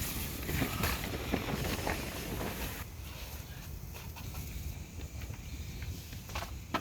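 Wind buffeting the microphone as a steady low rumble, with scattered sharp clicks and crackles that thin out after about three seconds.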